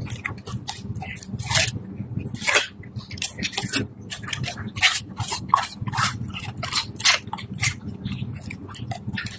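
Dog chewing and eating pear, with irregular crunches several times a second.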